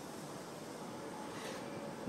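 Greater Anglia Mk3 passenger coaches rolling slowly past along the platform: a steady noise of wheels running on the rails, with a brief click about one and a half seconds in.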